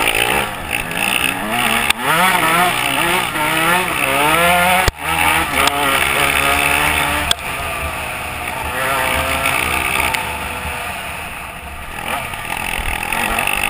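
Dirt bike engine revving hard under riding, its pitch climbing and dropping back several times as it accelerates, with a sudden brief drop about five seconds in.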